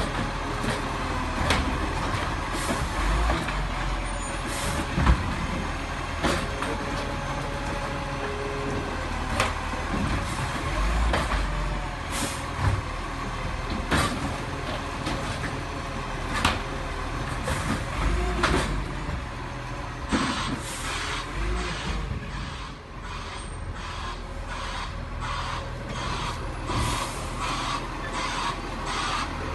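Garbage truck engine running steadily, with repeated knocks and clanks, and a quick run of knocks about twenty seconds in.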